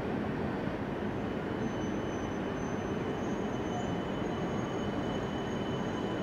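Shinkansen train moving slowly at the far end of the platform: a steady running rumble, with a faint high whine that comes in about a second and a half in.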